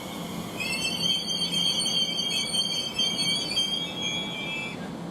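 A train squealing on the rails: a high-pitched squeal of several tones at once that starts about half a second in, holds for about four seconds and fades out near the end, over a low steady rumble.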